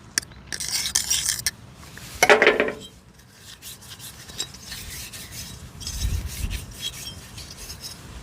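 Hand scraping and rubbing, rasping strokes with one louder scrape about two seconds in, followed by scattered light clicks.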